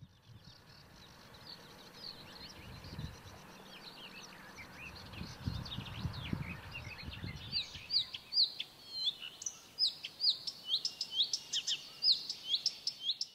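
Wild birds singing, a chorus of short chirping notes that becomes denser and louder from about halfway through, with a low rumble in the middle.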